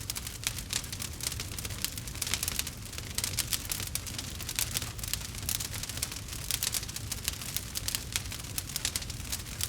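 Wood fire crackling: a dense, steady stream of sharp pops and snaps over a low rumble.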